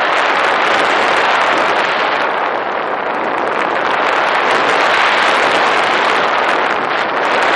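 Loud, steady rushing of air and motor noise picked up by a camera riding on a flying model airplane, easing briefly about three seconds in and again near the end.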